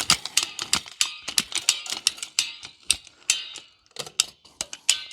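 Ratchet wire stretcher being worked to tension a barbed wire strand, giving a quick, uneven run of clicks.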